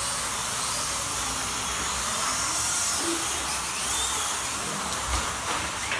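Slot cars' small electric motors whining as they race round the track, with the pitch rising and falling as they speed up and slow down.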